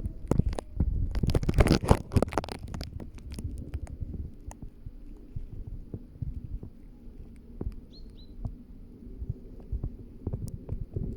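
Footsteps and rustling on the forest floor, with a louder burst of brushing and crunching about a second in, then softer, uneven steps. A bird gives a short high chirp twice about eight seconds in.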